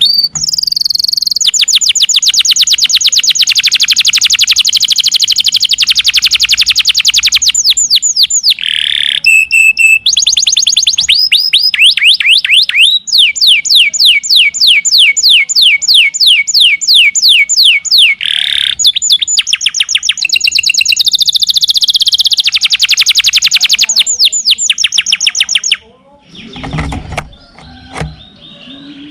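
Domestic canary singing a long song of fast rolling trills, rapid repeated high notes that change phrase every few seconds. It stops about 26 seconds in, leaving a few quieter low knocks.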